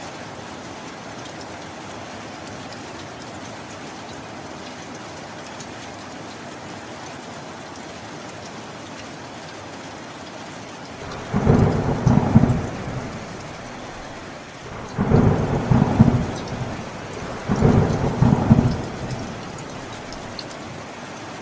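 Steady rain, with three rumbling rolls of thunder in the second half, each lasting a second or so.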